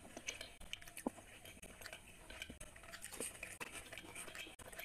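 Close-miked chewing and wet mouth clicks of a person eating luchi, deep-fried puffed bread, with chicken liver curry, heard as irregular short clicks. Near the end, fingers tear the luchi and scoop up curry.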